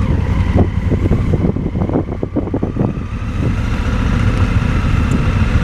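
Motorcycle engine running slowly with a steady low drone, and a run of short crackling knocks during the first half.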